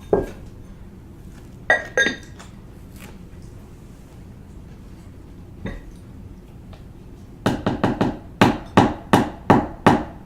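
Spoon clinking and knocking against a soup bowl: a few separate strikes, two of them ringing briefly, then a quick run of about ten knocks near the end.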